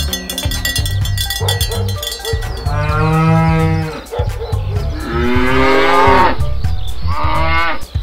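A cow mooing three times in long, low calls, starting about three seconds in, over background music with a bass line and clinking percussion.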